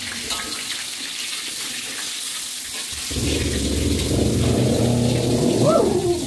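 Tofu cubes frying in shallow oil in an aluminium wok, a steady sizzling hiss, as a metal spatula turns the pieces. About three seconds in, a louder, lower sound joins it.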